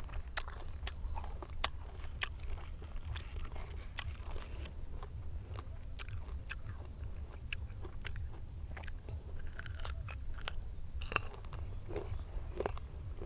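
Close-up crunching and chewing of firm fresh guava dipped in chili salt, with many sharp, crisp crunches as the fruit is bitten and chewed. A steady low rumble runs underneath.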